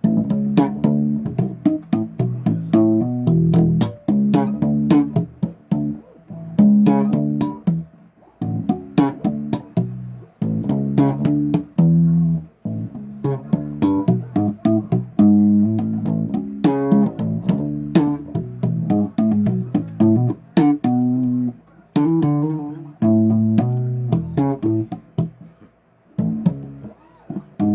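Bass guitar played solo: plucked riffs of short, sharply attacked low notes in phrases broken by brief gaps.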